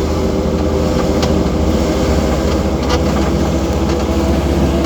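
Vehicle engine idling steadily: a constant low hum with a couple of faint ticks.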